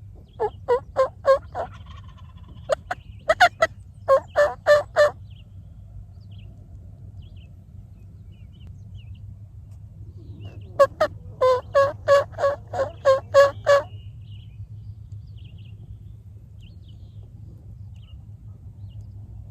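Turkey yelping in two runs of evenly spaced, loud yelps: a short broken series near the start and a longer series of about ten yelps past the middle. A steady low rumble runs underneath.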